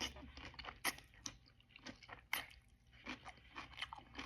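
Close-up eating sounds: chewing and biting raw zucchini noodles, with many short crunchy, wet clicks scattered irregularly.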